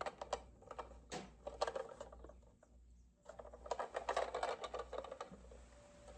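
Light clicking and rattling of a Lionel model train car being handled, with a dense run of quick clicks that starts about three seconds in and lasts nearly two seconds.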